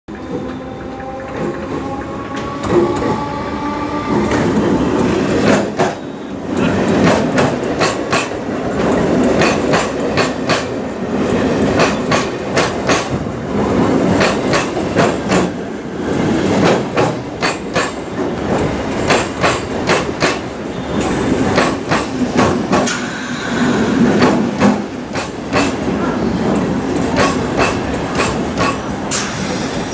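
Electric multiple-unit (EMU) suburban local train running at speed, its wheels clattering in irregular clusters of sharp clicks over rail joints. A faint whine rises slightly in pitch during the first few seconds.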